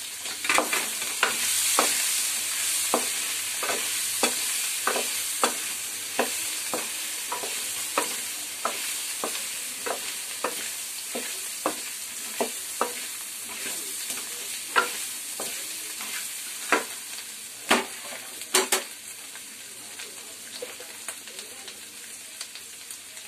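Baby potatoes and chilli powder sizzling in hot oil in a kadai while being stirred, the spoon scraping and knocking against the pan about one and a half times a second, with a few louder knocks toward the end. The sizzle slowly dies down as the potatoes fry.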